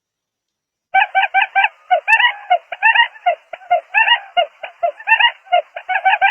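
Barred buttonquail calling: after about a second of silence, a long fast run of short, clucking notes, several a second, with brief breaks.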